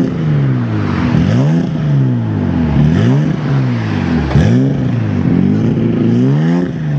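Toyota Supra MK4's turbocharged 2JZ straight-six revved repeatedly, about six times: each time the revs shoot up sharply and then sink back over about a second.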